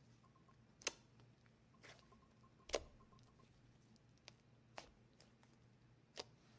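Quiet room broken by about six short, sharp clicks and taps, the loudest about a second in and just under three seconds in.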